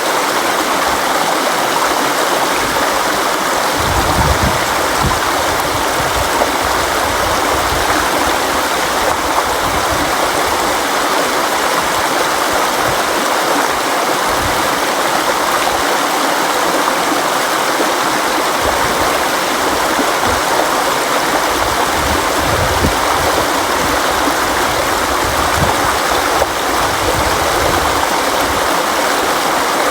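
River water flowing steadily, an even rushing noise with irregular low rumbles.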